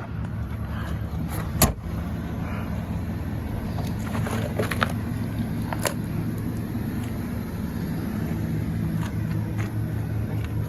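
An engine running steadily at idle, with a few sharp clicks and knocks, the strongest one a couple of seconds in and a small cluster around the middle.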